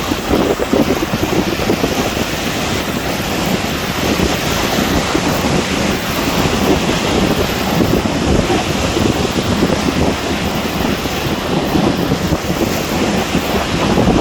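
Strong storm wind buffeting the microphone, a steady loud rumbling rush, with waves on choppy water beneath it.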